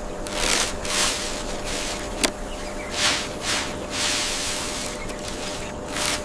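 Hissing whooshes of noise that swell and fade several times, with one sharp crack about two seconds in.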